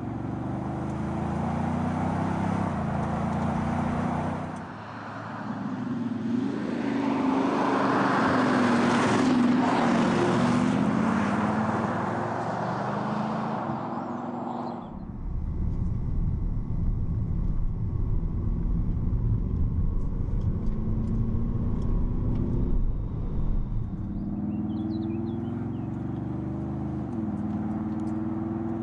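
Audi SQ7's V8 diesel engine and exhaust heard in several cut-together takes: steady running close to the tailpipes, then a drive-by that swells and fades. After that comes a deeper, heavier engine drone with road noise.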